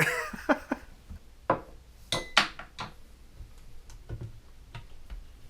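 Vitamix blender container being handled after blending: a series of scattered light clicks and knocks, with one brief high ring about two seconds in.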